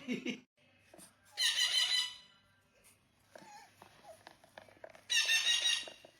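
A parrot giving two loud, harsh screeches, each under a second long, about four seconds apart.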